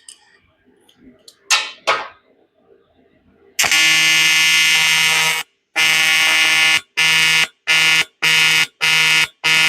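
A few faint knocks, then an aluminium welding arc buzzing: one burst of nearly two seconds about three and a half seconds in, then six short bursts of about half a second each. The arc is being pulsed on and off because the welder's heat is set awfully hot.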